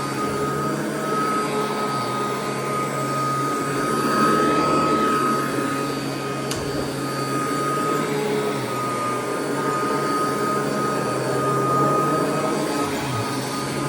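Royal vacuum cleaner running steadily over carpet, with a rush of air, a steady high motor whine and a low hum. There is a single click about halfway through.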